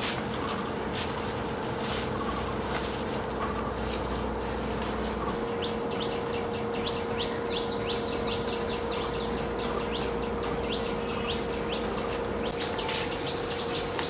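A wild bird chirping: a quick run of short falling chirps starts about five seconds in and thins out toward the end, over a steady hum.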